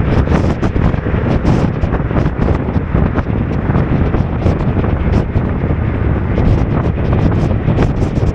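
Heavy wind buffeting the microphone of a motorcycle riding through wind and rain, a dense steady rumble with frequent short sharp ticks of rain striking it.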